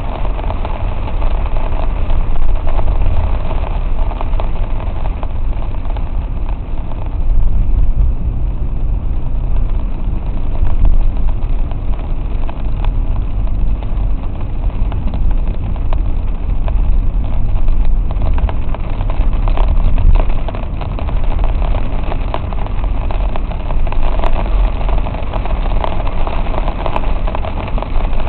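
Car cabin noise while driving through heavy rain on flooded streets: a steady deep rumble from the car and road, with the fine patter and spray of rain and water on the car, swelling and easing a little now and then.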